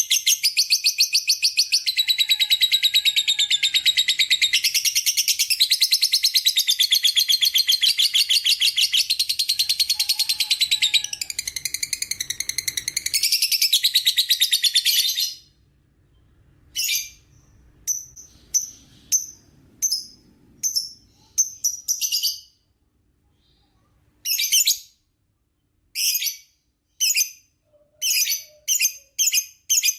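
Lovebird's long 'ngekek' chattering song: an unbroken, high-pitched stream of rapid repeated notes for about fifteen seconds, then short bursts separated by gaps, coming closer together near the end.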